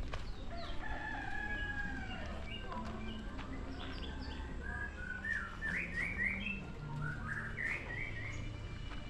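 A rooster crowing once, a long call about a second in, with small birds chirping in quick rising series through the rest.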